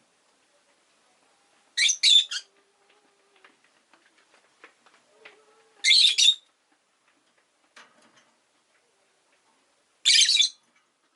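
Rosy-faced lovebird giving three short, shrill, harsh calls about four seconds apart, with faint small clicks and rustles in between.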